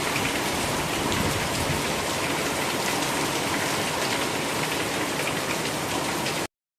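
Heavy rain falling steadily, a dense patter of drops, which cuts off abruptly near the end.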